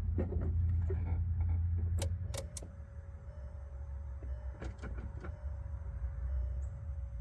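Electric starter cranking a VW Jetta TDI's diesel engine, which is slow to fire because of air in the fuel system after a fuel-filter change. The rumble is strongest for the first two and a half seconds, with a few sharp clicks about two seconds in, after which a faint steady whine continues.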